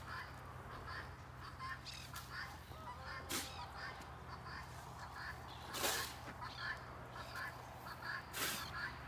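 Many short bird calls and chirps from farmyard birds, going on all through, with three short bursts of noise about three, six and eight and a half seconds in, over a steady low hum.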